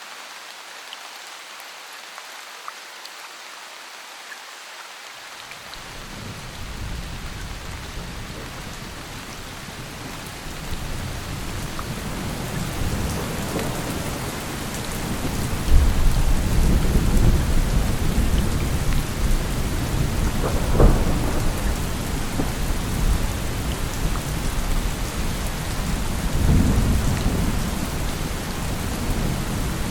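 Steady rain falling. About five seconds in, a deep thunder rumble sets in under it and builds, growing louder from about halfway through, with swells near the end.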